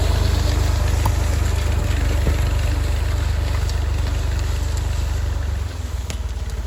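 Massey Ferguson 50X tractor engine running steadily. It drops to a quieter, lower note near the end.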